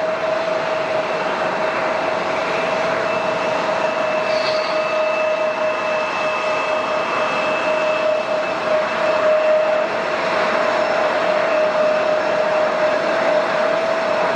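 Jet airliner's engines running: a steady whine over a broad rush of noise, growing slightly louder.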